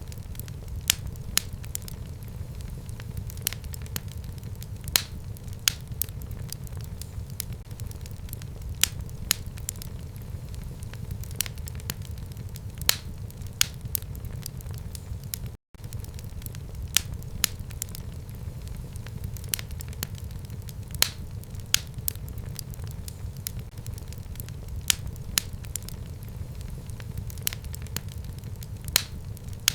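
Wood fire burning in a fireplace: a steady low rumble of flame with frequent sharp crackles and pops at irregular intervals. The sound cuts out for an instant about halfway through.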